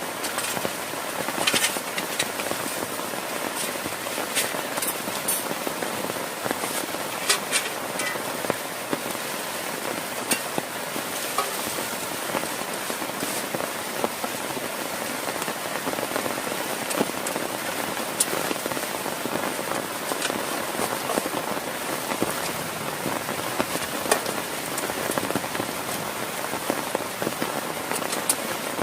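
Heavy rain falling steadily, with frequent sharp clicks of large drops striking a nearby surface.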